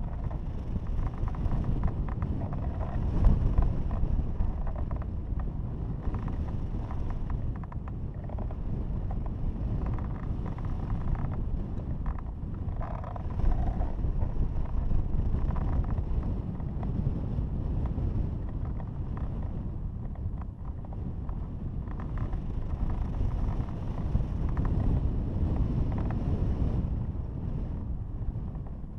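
Airflow buffeting the microphone in free flight: a low, gusty rumble that swells and eases every few seconds.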